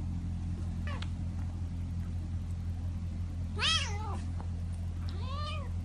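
A cat meowing three times: a short faint meow about a second in, a loud rising-and-falling meow in the middle, and another near the end, over a steady low hum.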